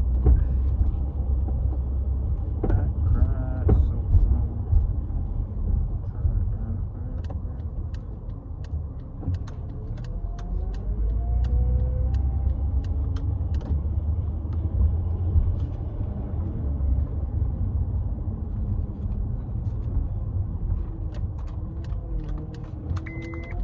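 Inside a moving car: a steady low rumble of road and engine noise, with scattered light clicks. A high electronic beep starts right near the end.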